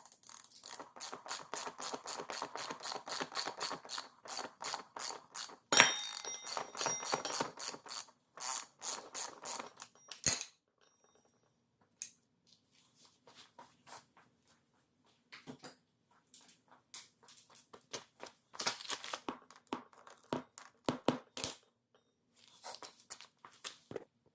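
Hand socket ratchet clicking rapidly while backing out the 17mm-headed front axle, with one sharper metallic clank about six seconds in. The ratcheting stops about ten seconds in, leaving scattered light clicks and taps.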